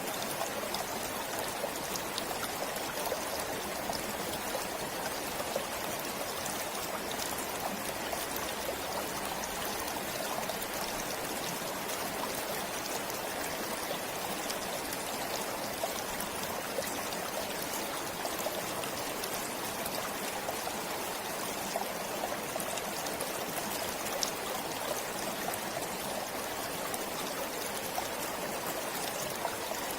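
Forest stream flowing steadily, a constant rush of water with small splashes and trickles.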